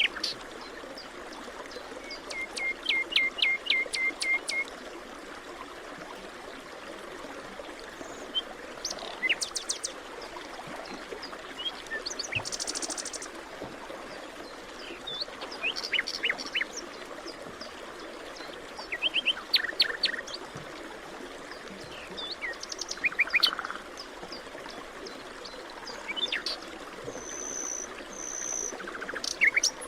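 Forest birds chirping: groups of short, quick calls every few seconds, with a high trill now and then, over a steady background hiss.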